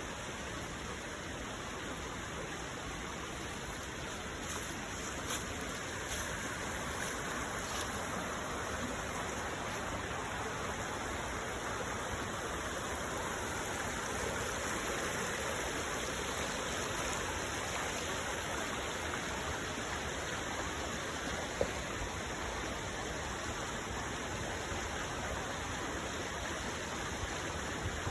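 Steady rush of a stream flowing below a waterfall.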